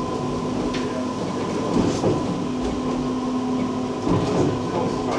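Cabin ride noise of a Vivarail Class 230 diesel-electric train on the move: a steady rumble of wheels on rail with a low hum and a higher whine, and a few faint ticks.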